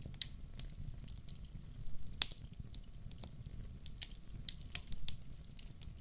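Wood fire crackling in a fireplace: irregular snaps and pops over a low steady rumble, with one sharper pop a little over two seconds in.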